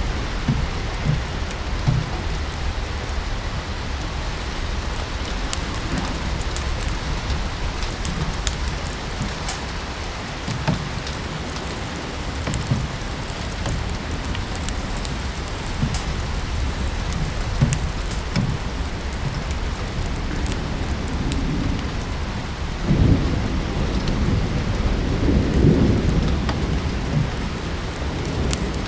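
Steady rain falling, with scattered sharp crackles of a wood fire in a fireplace. A low rumble swells and fades near the end.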